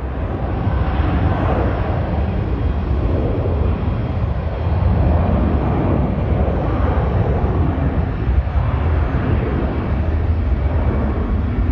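Jet airliner engine noise: a deep rumble with a wavering roar that swells about a second in and stays loud.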